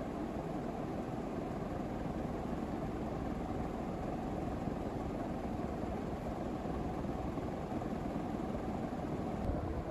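Modern Fan Co. Ball Hugger 42-inch ceiling fan, with its 153x18mm motor, running steadily, its thin blades moving air with an even rushing.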